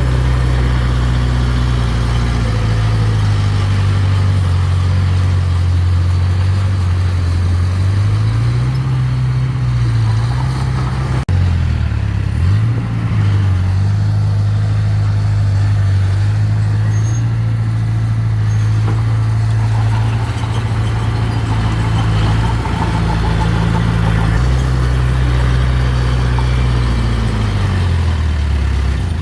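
Heavy-equipment engine running steadily, its pitch dipping and rising a few times as the revs change, with an abrupt break about eleven seconds in.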